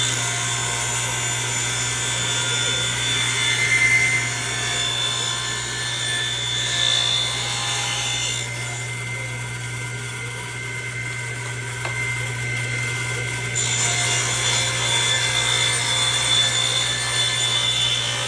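Electric orbital sander running against a wooden floor register, a steady rubbing sound over the motor's hum. It eases off for a few seconds around the middle and picks up again about two thirds of the way through.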